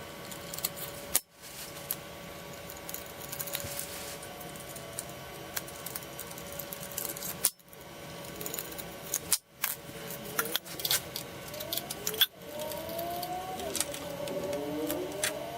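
Hand tools and small metal parts clicking and clinking during motorcycle chain-and-sprocket work, with sharp irregular taps and rattles. The sound cuts out abruptly several times, and a few short squeaky glides come near the end.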